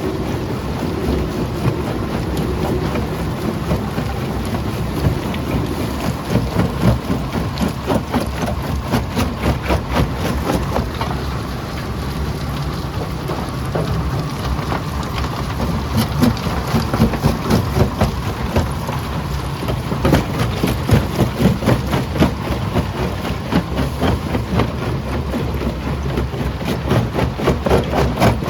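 Primary jaw crusher running and crushing quarry rock: a steady heavy machine rumble under a dense clatter of stones knocking and cracking. The clatter swells into louder spells and eases off again several times.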